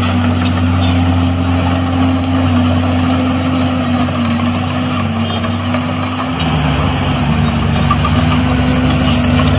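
Heavy diesel engine of earthmoving machinery running steadily, its note changing about six seconds in.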